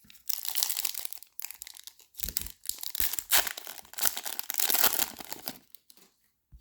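A plastic trading-card pack wrapper being torn open and crinkled by hand, in several rustling bursts with short pauses between.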